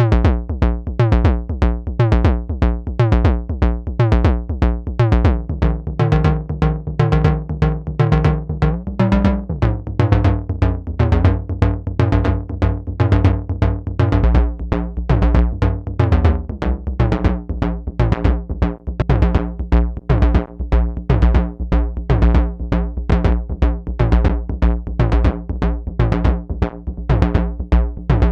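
Semi-modular analog drum synthesizer playing a sequenced pattern: a fast, even run of hits, about four a second, over pitched synth tones. The pitch of the tones shifts a few times, with short glides about a third of the way in and again past the middle.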